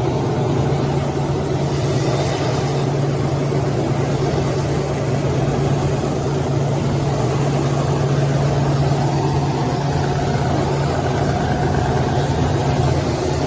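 Six-roll wood sanding machine running, a loud, steady motor hum with a dense rushing noise over it.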